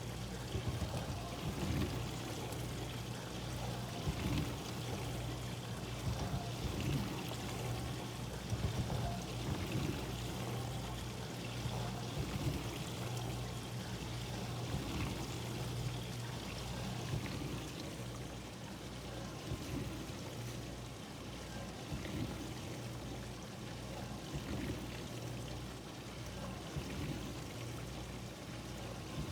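Dishwasher running, heard from outside the closed machine: water spraying and sloshing inside it over a steady low motor hum.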